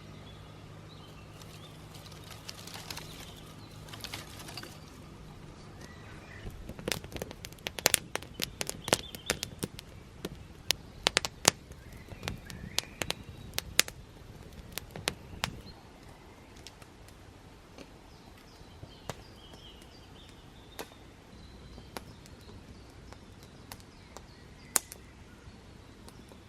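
Small wood campfire crackling, with a dense run of sharp, irregular pops and cracks in the middle that thin out to occasional pops; birds chirp faintly in the background.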